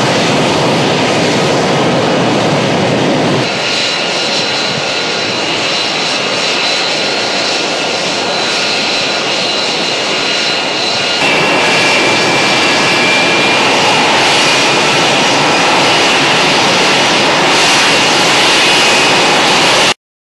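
Pratt & Whitney F135 jet engine of an F-35B STOVL fighter running at high power in a hover pit, a loud steady roar with high steady whines above it. The sound shifts abruptly twice and cuts off sharply just before the end.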